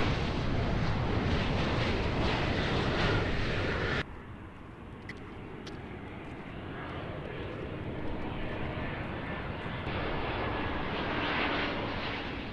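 Airliner engine noise, loud for the first four seconds, then cut off abruptly and replaced by a quieter aircraft engine sound with a faint whine that builds again towards the end.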